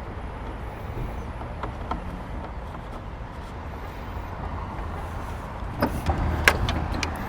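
Truck driving: a steady low rumble of engine and road noise, with a few sharp clicks near the end.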